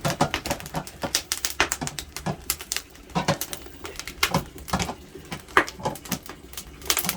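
Firewood burning under an iron cauldron, crackling and popping in a rapid, irregular stream of sharp cracks.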